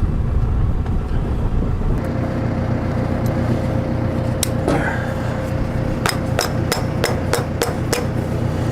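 Tractor engine running steadily at idle, and about six seconds in a quick run of about seven sharp metal strikes, roughly three a second, as the worn belt lace pin is knocked out of the round baler's belt lacing.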